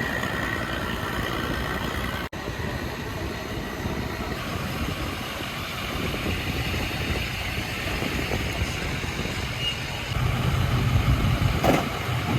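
Engine running steadily with a rushing noise, its low hum getting louder near the end.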